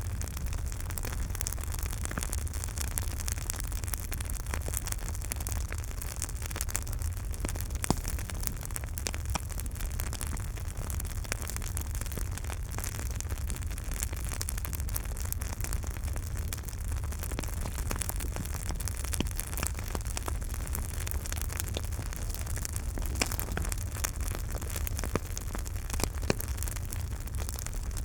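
Campfire burning: a steady hiss and low rumble with frequent sharp crackles and pops, one louder pop about eight seconds in.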